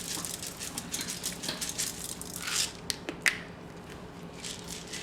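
Whole peppercorns being sprinkled into a pot: a rapid patter of small ticks and rustling that thins out after about two and a half seconds, followed by a few sharper single clicks.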